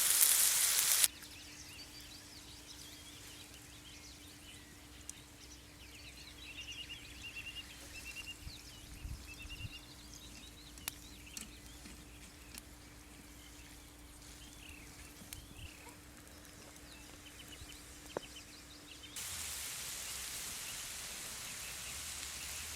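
Frying sizzle that cuts off about a second in, giving way to quiet outdoor ambience with small birds chirping and a faint steady low hum. Near the end a steady hiss sets in.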